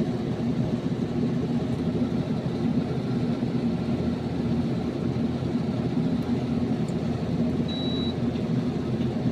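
Steady low mechanical hum throughout, with a single short high-pitched electronic beep about eight seconds in.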